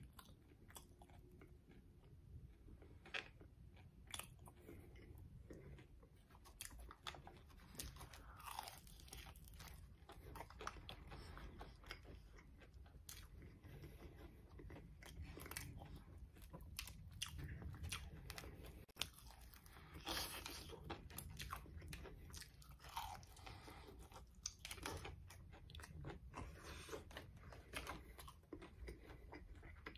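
Close-up crunching and chewing of a crispy breaded fried chicken wing: repeated crackly bites and chewing throughout.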